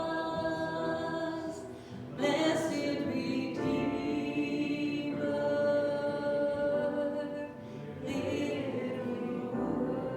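A group of voices singing a hymn in long held notes, with short breaks between phrases about two seconds in and again near eight seconds.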